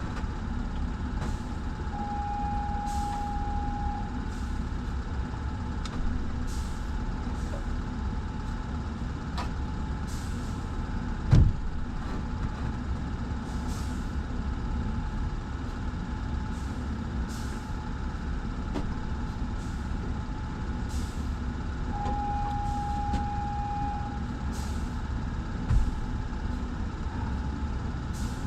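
Steady drone of running machinery, broken by short hisses every second or two. A steady high tone sounds for about two seconds, twice, twenty seconds apart. Two sharp thumps stand out, one near the middle and one near the end.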